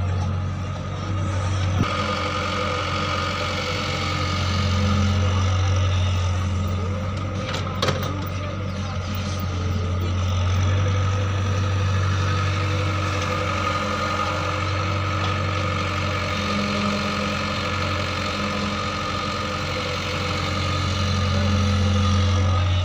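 A farm machine's engine running steadily at a low, even pitch, its loudness swelling and easing a little. A single sharp click comes about eight seconds in.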